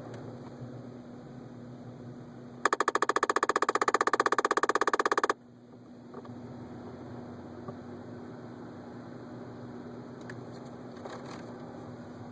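2011 Ford Focus heater vent mechanism behind the dash clicking loudly and very rapidly, well over ten clicks a second, for about two and a half seconds before cutting off suddenly: the vent getting stuck as the heater is turned off. A steady low hum of cabin noise runs underneath.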